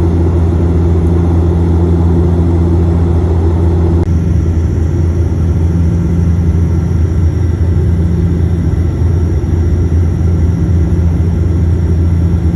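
Steady, loud drone of an airliner's cabin in flight, a low engine hum under rushing air noise. The sound shifts slightly about four seconds in, when a faint high whine comes in.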